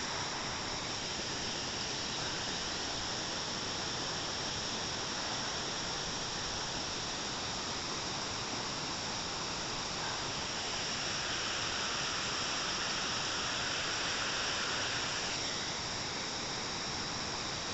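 Waterfall: a steady rush of falling water that swells slightly in the higher range a little past halfway.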